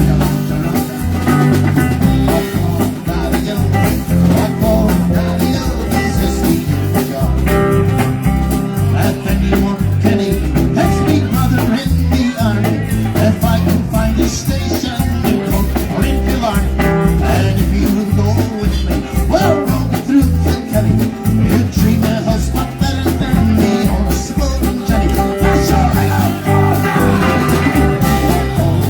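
Live bar band playing an instrumental stretch: electric guitar over a walking bass line and drum kit, at a steady beat.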